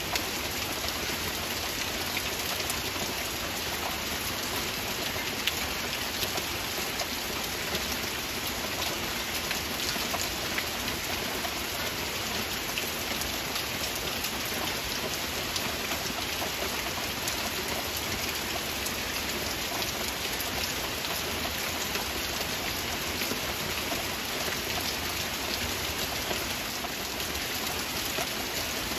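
Heavy rain falling steadily: a dense, even hiss with many individual drop impacts heard as small ticks through it.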